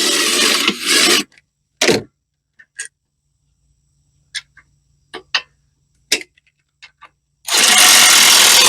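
Two bursts of harsh rubbing noise, one at the start and one near the end, with scattered light clicks and knocks in between.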